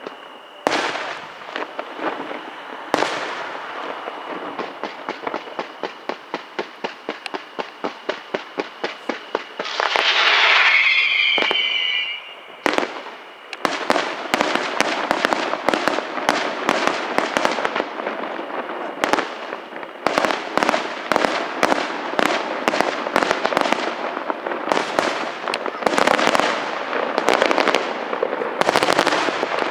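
Fireworks display: a run of evenly spaced bangs that speeds up, then a loud whistling shriek falling in pitch about ten seconds in, followed by dense, rapid bangs and crackling.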